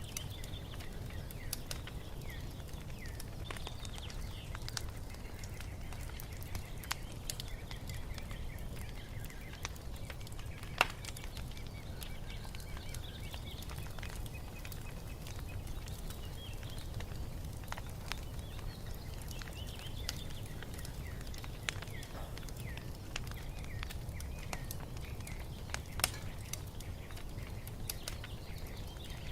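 Wood fire crackling over a steady low rumble, with scattered sharp snaps and two louder pops, one about a third of the way in and one near the end. Small birds chirp and twitter throughout.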